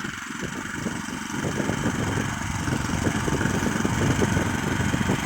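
Neva MB23 walk-behind tractor's small single-cylinder engine running at idle, a steady fast chugging that grows louder over the first couple of seconds.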